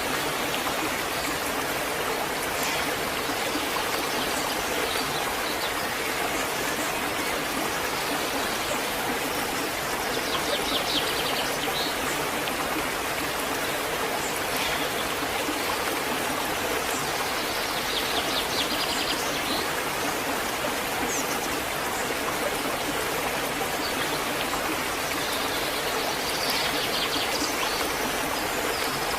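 Waterfall: a steady, even rush of falling water. A few brief high trills sound over it, about a third of the way in, past the middle and near the end.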